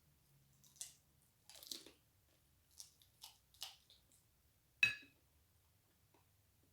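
Close-up chewing and crunching of food, a handful of short crunches, then one sharp ringing clink about five seconds in.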